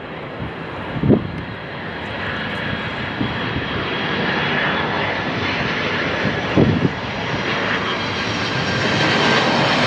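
Jet airliner engines, a dense steady noise growing gradually louder, as a departing jet spools up and rolls. Two brief low bumps break through about a second in and again past the middle.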